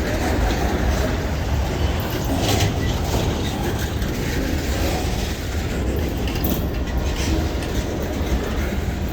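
Freight train rolling past with a steady rumble, its wheels clacking over the rail joints now and then.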